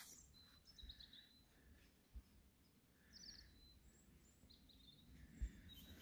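Near silence with faint bird chirps now and then, over a low rumble, and two soft low thumps, about two seconds in and near the end.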